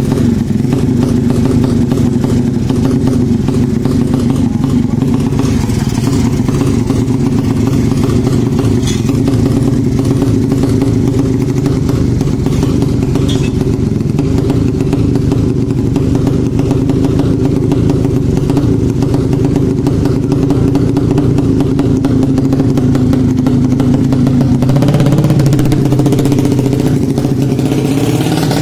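A 200cc motorcycle engine running steadily at a constant speed, with an even, unchanging note; near the end the note shifts and grows slightly louder.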